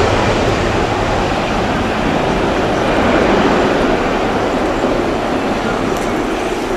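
Jet airliner engines running loud and steady, slowly getting quieter as the aircraft moves away.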